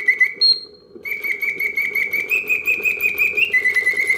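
Vintage Karl Griesbaum mechanical singing bird cage whistling its birdsong in rapid chirping trills. The song breaks off briefly about half a second in, then resumes, stepping up in pitch and back down, over the faint steady whir of its clockwork mechanism.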